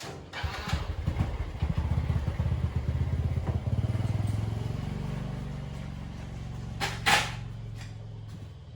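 Motorbike engine firing up and running, loudest in its first few seconds, then settling into a steady note that gradually fades. A sharp knock about seven seconds in.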